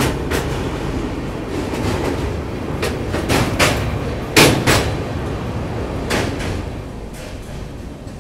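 Moving passenger train: a steady rumble broken by irregular sharp clacks and knocks, the loudest about four and a half seconds in. The noise eases off near the end.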